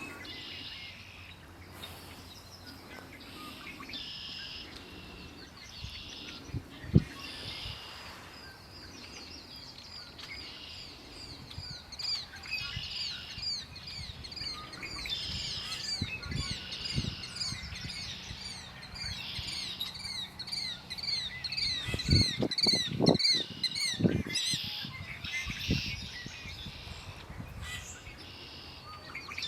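Several songbirds singing outdoors, one delivering a long, fast series of repeated sweeping notes through the middle of the stretch. A few low thumps cut in, the sharpest about a quarter of the way through and a cluster near the end.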